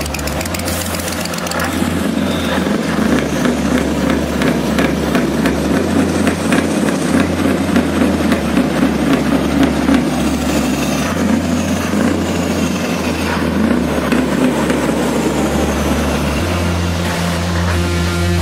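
Large diesel truck engine running, a rough, dense rumble that builds in loudness over the first few seconds and then holds steady.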